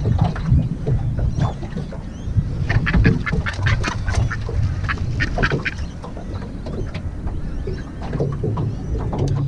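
A bird giving a quick series of short, harsh, quacking calls for about three seconds, over a steady low rumble of wind or water.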